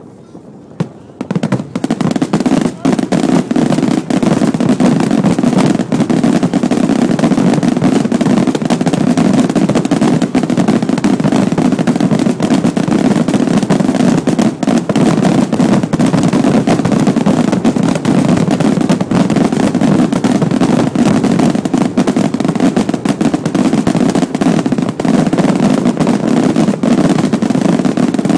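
Firecrackers and fireworks going off in a dense, continuous barrage of rapid cracks, like machine-gun fire, building up about two seconds in after a few scattered bangs.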